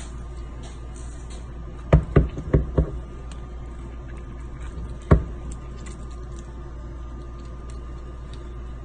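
Sharp knocks from handling honeycomb frames and extraction gear: four quick knocks in a row, then one louder single knock a couple of seconds later, over a steady low hum.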